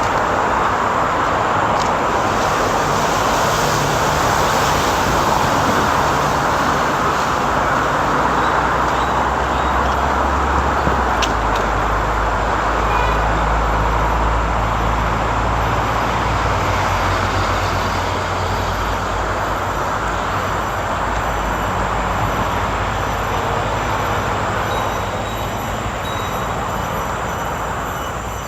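Steady road traffic noise, with the low hum of passing vehicle engines shifting every few seconds. Faint high chirps repeat about once a second above it.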